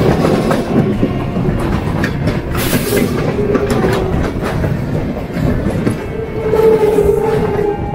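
Electric suburban local train (EMU) running, heard from its open doorway: a steady rumble with wheels clattering over rail joints, and a pitched whine that grows louder near the end.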